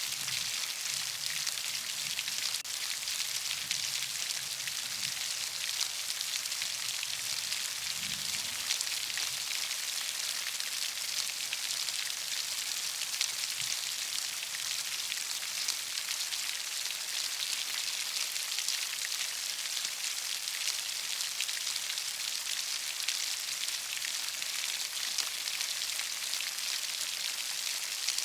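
Heavy rain falling: a steady, dense hiss. Faint low rumbling sounds under it for roughly the first nine seconds, then fades out.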